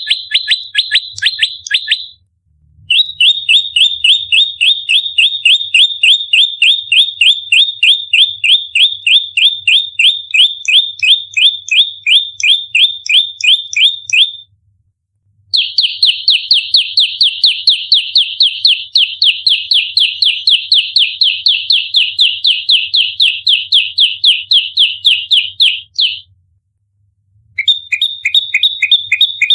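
Olive-backed tailorbird (prenjak lumut) giving its fighting call in rapid-fire volleys: long runs of sharp, high, evenly repeated notes, about four to five a second. The runs are broken by short, complete silences.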